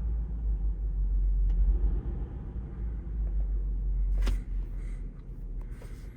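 Hummer H3 engine idling, a steady low rumble, with a sharp click about four seconds in.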